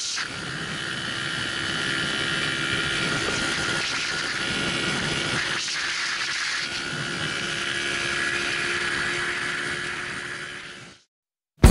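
Small motorcycle engine running steadily at cruising speed, with wind noise over the microphone, heard from the bike as it rides. The sound fades out near the end.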